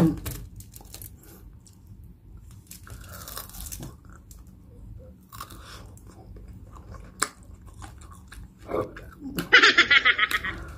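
A person chewing and biting into crispy pata (deep-fried pork leg), with wet mouth sounds, and a burst of rapid crunching near the end.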